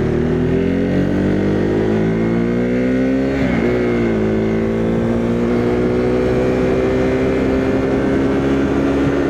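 Motorcycle engine pulling under load, its pitch climbing steadily, then dropping sharply with an upshift about three and a half seconds in before climbing slowly again.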